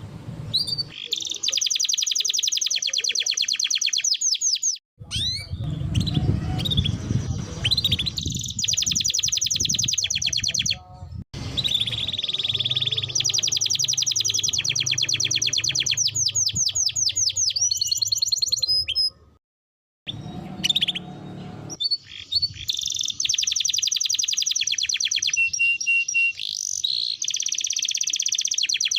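Canary song: long, fast trills of rapidly repeated notes rolling on one after another, broken by a few abrupt gaps.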